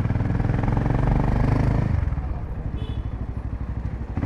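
Royal Enfield Himalayan 450's single-cylinder engine, fitted with an aftermarket Power Rage exhaust, running under steady throttle while riding. About two seconds in it eases off, and the exhaust note drops to a softer pulsing beat at lower revs.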